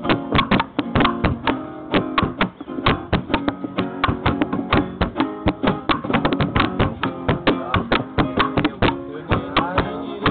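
Acoustic guitar strummed in a fast, steady rhythm, about five sharp percussive strokes a second ringing out chords.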